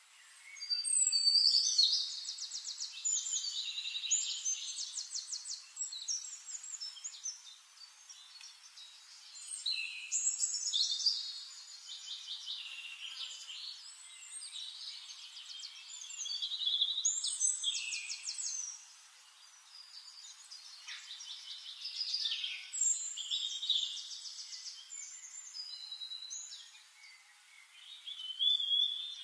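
A songbird singing in phrases of rapid, high trills and quick rising and falling whistles, each phrase lasting a few seconds, with a fresh phrase about every six seconds.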